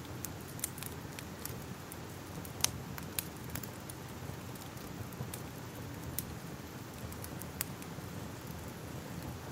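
Fire crackling: a low steady rumble of flames with scattered sharp pops and snaps, the loudest about two and a half seconds in.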